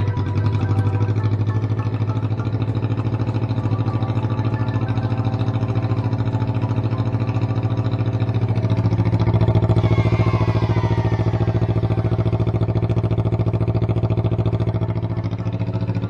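Honda CBR250RR (MC51) parallel-twin engine swapped into a Honda Grom, idling steadily and loud through a straight pipe with no muffler. A brief falling whine passes over it about ten seconds in.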